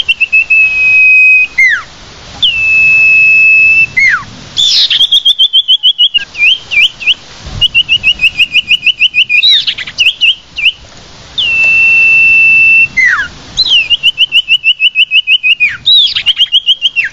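Common iora (sirtu/cipoh) calling. It gives long, steady, high whistles, each ending in a quick falling slur, alternating with fast runs of about six short repeated notes a second.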